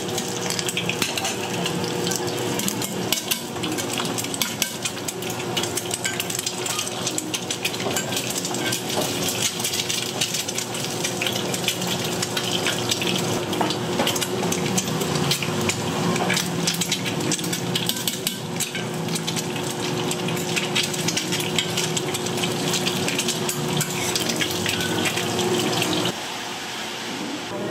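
Scallion pancakes frying in hot oil: a steady sizzle full of fine crackles, with occasional clinks of metal utensils. It drops suddenly to a quieter level near the end.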